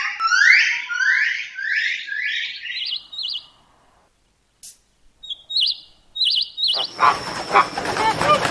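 Bird calls: a quick series of rising whistled notes, about two a second, that stop about three seconds in. A few short trills follow, then a dense jumble of calls starts near the end.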